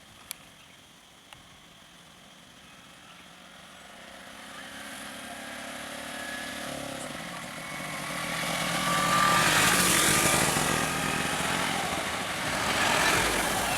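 A motor vehicle's engine approaching and getting steadily louder from about four seconds in, loudest in the second half. Two sharp clicks come near the start.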